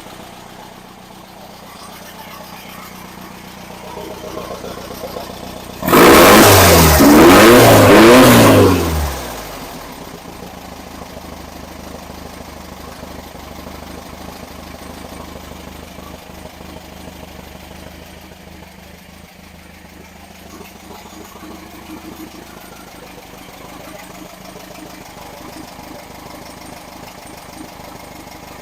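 Rebuilt engine running during its camshaft break-in, idling steadily, with three quick revs of the throttle about six seconds in before it settles back to idle.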